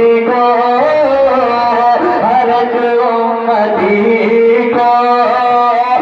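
A voice singing a naat in long, drawn-out ornamented notes that bend and glide in pitch.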